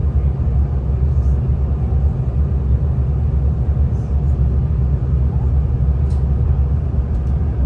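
Steady low rumble of a V/Line diesel passenger train running along the line, heard from inside the carriage, with a few faint ticks and rattles.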